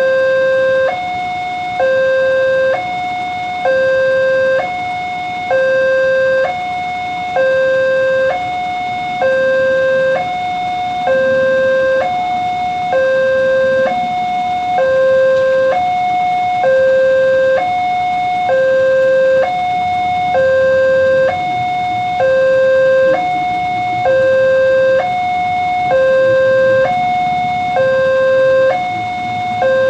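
Railway level-crossing warning alarm sounding a continuous electronic two-tone hi-lo signal, each note lasting about a second, warning that a train is approaching.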